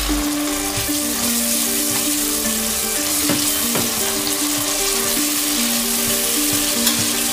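Spring onions, shallots and garlic sizzling steadily in hot oil in a metal pot, with a metal spatula stirring and now and then tapping against the pot. A simple background melody plays underneath.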